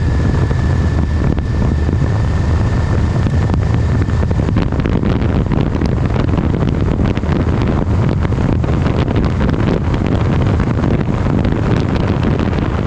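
Wind rushing over the microphone on top of a steady low engine drone, with a faint high whine for the first four seconds or so.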